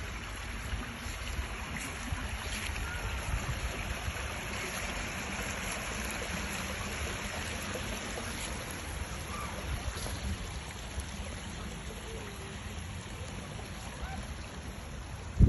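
Steady rush of flowing water, as from a stream, with a few faint short chirps over it.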